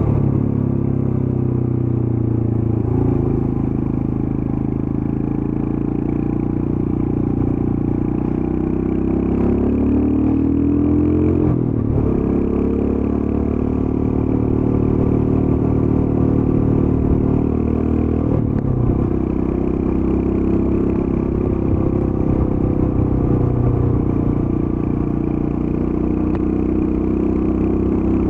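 Royal Enfield Scram 411's air-cooled 411 cc single-cylinder engine on its stock exhaust, running under way at a relaxed pace. Its pitch climbs and then drops back sharply three times, a few seconds in, near the middle and about two-thirds through, as it is shifted up through the gears.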